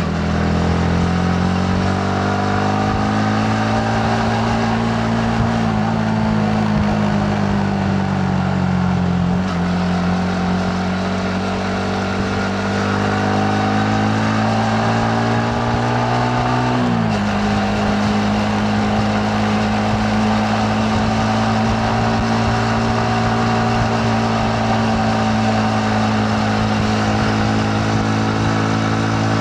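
Yamaha MT-15's 155 cc single-cylinder engine pulling steadily under way, its pitch climbing slowly. The pitch drops suddenly twice, about a third of the way in and just past halfway, as the gears change, then holds steady.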